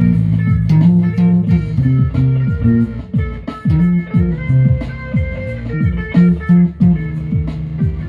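Guitar music: plucked guitar notes over a bass line, in a steady rhythm.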